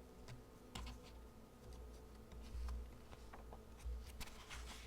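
Faint, scattered light clicks and taps, a few each second, over a low rumble.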